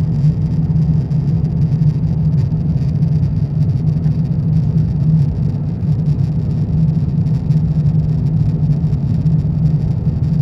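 Steady cabin drone of an Airbus A350-900 in flight, its Rolls-Royce Trent XWB engines and the airflow heard from a window seat as a constant low hum with a hiss of air above it.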